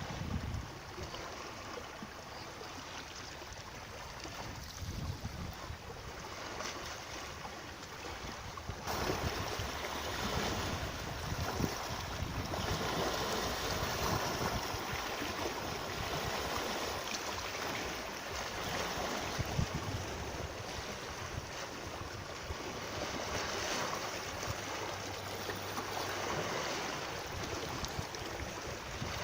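Steady rush of moving water, fuller and a little louder from about nine seconds in.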